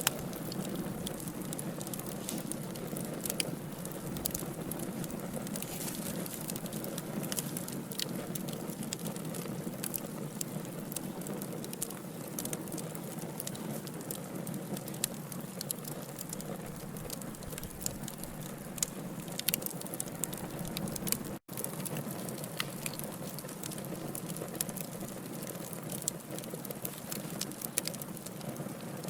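Burning logs crackling, with frequent sharp pops and snaps over a steady hiss of flame. The sound cuts out for a split second about two-thirds of the way through.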